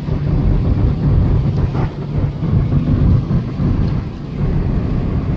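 Low road and engine rumble inside a moving car's cabin, steady apart from a brief dip about four seconds in.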